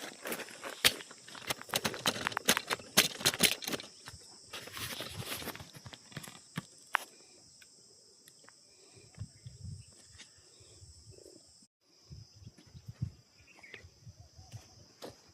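Steady high-pitched insect buzz, with a dense flurry of sharp clicks and rustles over the first half and scattered soft thumps in the second half.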